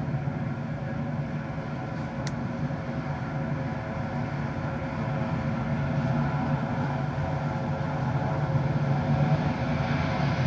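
Jet airliner's engines running: a steady hum of several tones over a rumble, slowly getting louder as the aircraft comes closer.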